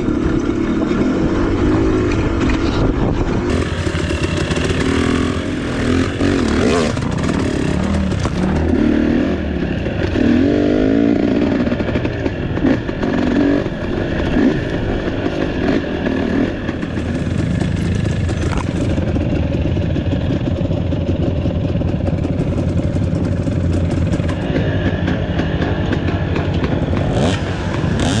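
Off-road trail motorcycle engine running, with the throttle rising and falling repeatedly over the first half and holding steadier after that.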